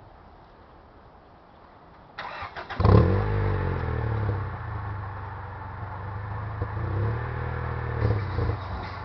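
Acura Integra LS four-cylinder engine, through an Apexi N1 aftermarket exhaust, cranking briefly on the starter, catching about three seconds in with a loud burst, then settling into a steady idle with a couple of slight swells near the end.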